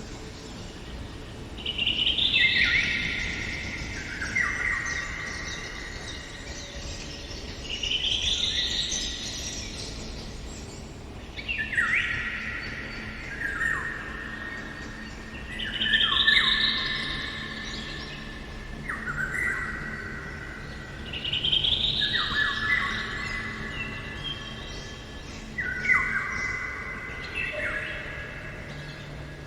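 A songbird singing the same phrase over and over, six times, about every four to five seconds. Each phrase is a falling sweep followed by a run of clear notes stepping down in pitch.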